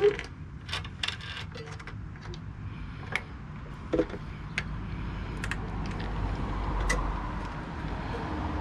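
Hand tools and metal engine parts clinking and tapping while a small engine is taken apart: a scatter of separate sharp clicks, the loudest right at the start and about four seconds in, over a low rumble that grows in the second half.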